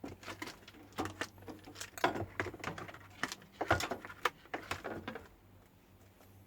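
Quick clicks and taps of handling small parts and multimeter test leads on a workbench while a microwave's high-voltage diode is set up for a test. The clicks stop about five seconds in, and a faint low hum runs underneath.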